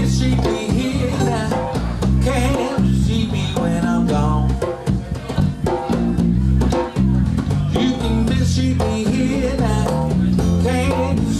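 Blues band playing an instrumental passage: electric guitar and bass guitar with percussion keeping a steady beat.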